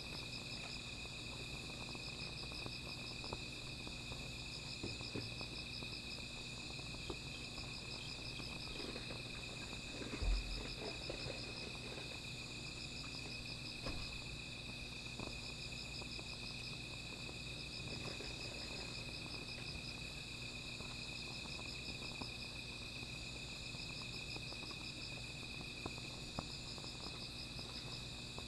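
Night insects calling: a steady high trill with a second insect's pulsed chirping in repeated phrases about every two and a half seconds, over occasional faint crackles from a small fire. A dull thump about ten seconds in is the loudest sound.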